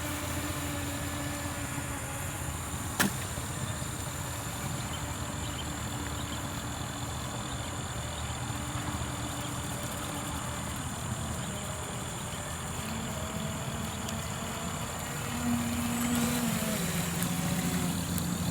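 RC jet boat with a brushless motor running, its motor whine coming and going and shifting in pitch with the throttle over a steady background hiss. It grows louder near the end, and a single sharp click sounds about three seconds in.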